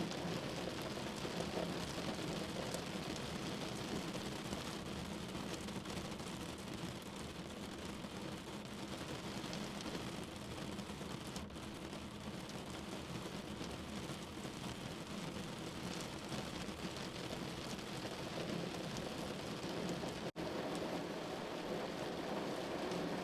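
Steady rain falling on a window, a dense even patter of drops. The sound drops out for an instant about twenty seconds in.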